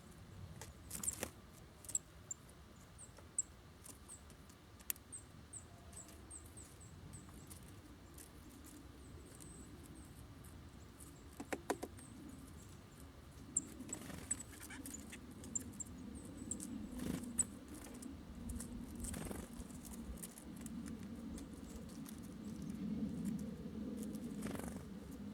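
Small songbirds giving rapid, very high, thin call notes, with a few sharp clicks at the feeder. A low rumble builds in the second half.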